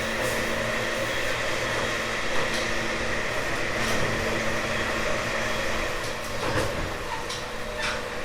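Running sound inside a JR 189 series express motor car: the steady hum and whine of its MT54 traction motors and gearing over wheel-on-rail rumble, with a few sharp clicks. The whine fades about six seconds in.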